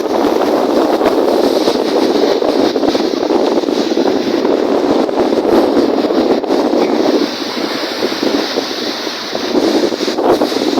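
Strong wind buffeting the microphone over a steady wash of lake waves. It eases a little for a couple of seconds past the middle.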